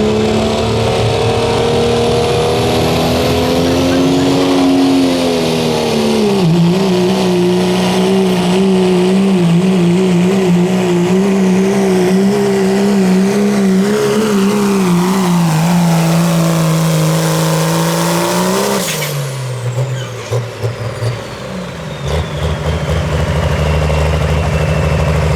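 Turbocharged diesel pickup truck pulling a sled at full throttle, its engine held at high revs with a turbo whistle above it, the pitch dipping once about six seconds in. About nineteen seconds in the throttle comes off: the engine note drops away and the turbo whistle winds down, and a diesel idles near the end.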